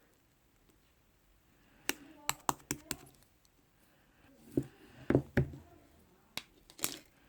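Irregular sharp clicks and taps: a quick run of them about two seconds in, a few heavier thuds around five seconds, and two more clicks near the end.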